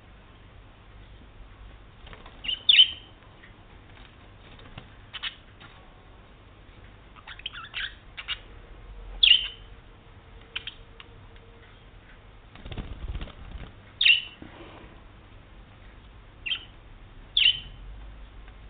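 Pet budgie giving short, sharp single chirps every second or two, with a brief rustling noise about two-thirds of the way through.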